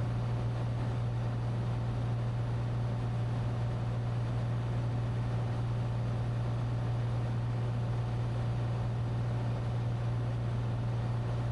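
Cessna 182T's six-cylinder Lycoming IO-540 engine and propeller droning steadily in cruise flight, heard as a constant low hum inside the cockpit.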